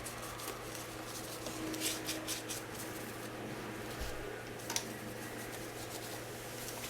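Paper towel wiping over a dirt bike engine, with a few short, hissy rubbing strokes about two seconds in and another near the middle, over a steady low hum.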